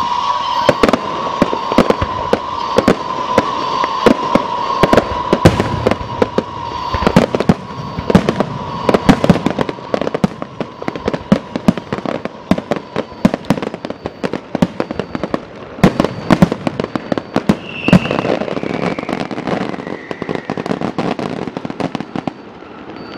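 Aerial fireworks bursting in a dense, irregular run of sharp bangs and crackles. A long high whistle sinks slowly in pitch and fades out in the first half, and another shorter falling whistle comes near the end.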